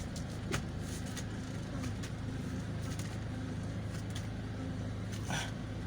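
Toyota Innova engine idling steadily, with no squeak from the power steering after its ATF was changed. A few light clicks, and a brief scratchy noise near the end.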